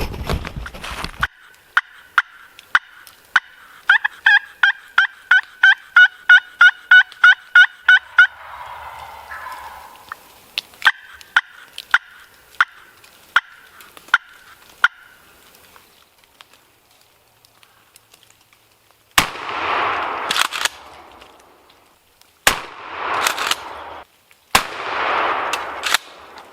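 Wild turkey yelping in a quick, even run, then a gobble. Then three shotgun blasts a few seconds apart, each trailing a long echo: a shot at a turkey that takes three shots to bring the bird down.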